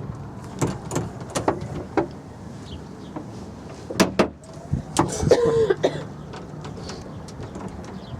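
Cable car running: a steady low hum with a string of clicks and knocks, the loudest a double knock about four seconds in. A short, wavering tone follows about five seconds in.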